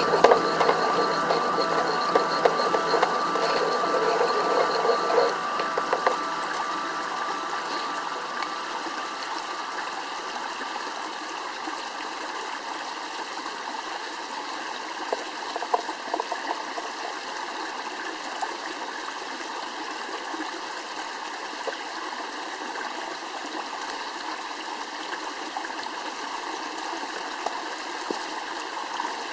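Steady rush of a flowing stream, with a few faint clicks in the middle. Music fades out over the first few seconds.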